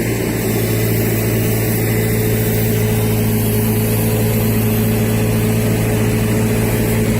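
Truck engine running steadily at a constant speed.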